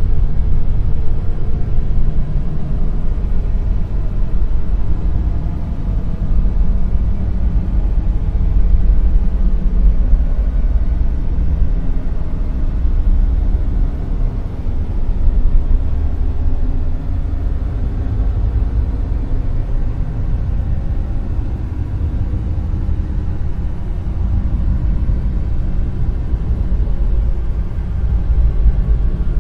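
Dark noise: a steady, deep noise with its weight in the bass and little treble, swelling and easing slowly in level.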